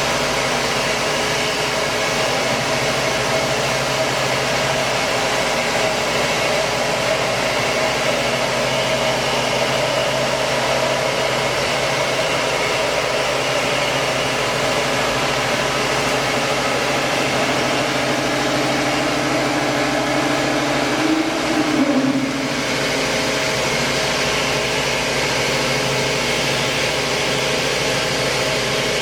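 KOTEC Diamond-1300DT band sawing machine running, its blade cutting through a steel H-beam with a steady mechanical noise and low hum. About 21 seconds in, a tone rises and the sound briefly swells, then dips for a moment.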